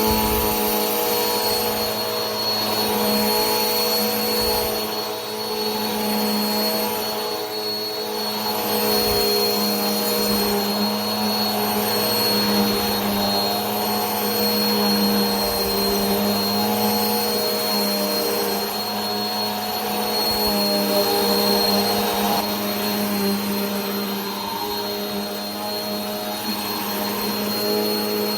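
Vacuum cleaner running continuously: a steady motor whine with a thin high tone over an airy rushing hiss, its loudness swelling and easing slightly.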